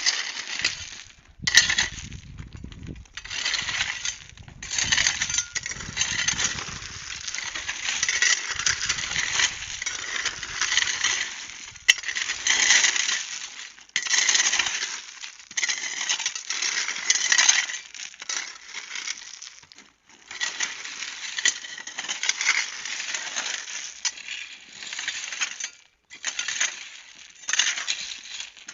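A metal hand tool digging and scraping through gravelly, stony soil: uneven, repeated gritty crunching and clinking strokes with brief pauses.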